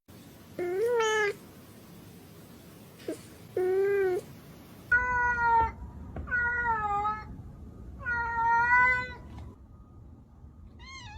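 A domestic cat meowing repeatedly: about five drawn-out meows, each under a second long, and a short one near the end. The later meows are higher-pitched than the first two.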